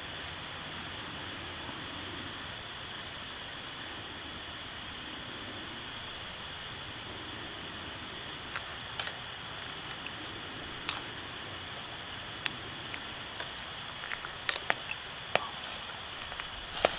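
Steady hiss with a constant high tone throughout, with scattered sharp clicks or taps from about halfway through.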